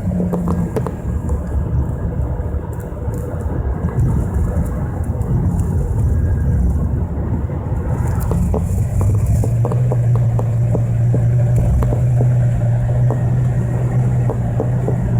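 Mitsubishi Pajero Mini engine running with a steady low rumble, a steady low drone coming in about ten seconds in. Light scattered crackling throughout is a recording artifact, not a sound from the car.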